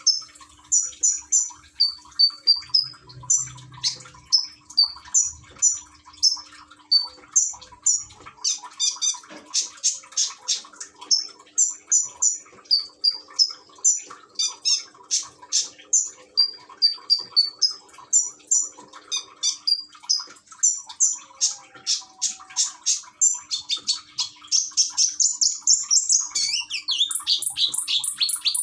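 A konin, a small sunbird, singing in fast runs of high, sharp chirps and trills with hardly a pause, over a faint trickle of water. The song turns into a denser, rapid trill about a dozen seconds in and again near the end.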